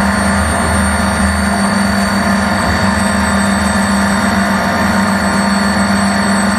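Fighter jet engine running steadily, a loud even rush with a low hum and thin high whines over it.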